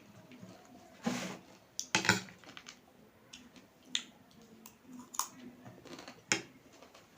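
Irregular sharp clicks and taps of a spoon against a bowl while handling spicy noodles and chatpate, with a longer, noisier burst about a second in.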